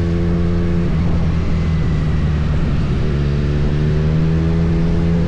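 Kawasaki Z900 inline-four motorcycle engine running under way with a steady note. The note breaks up from about a second in and settles back to a steady pitch about three seconds in.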